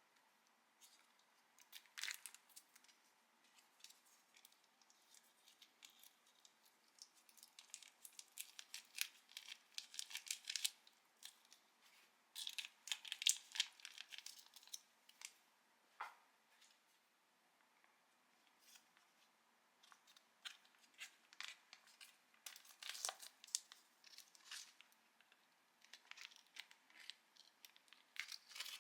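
Instant-food packaging being torn open and crinkled: irregular bursts of sharp crackles and rustles, busiest in the middle and again near the end.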